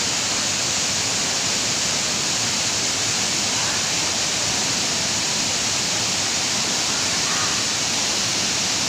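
Waterfall crashing steadily, a constant loud rush of falling water with faint voices in it.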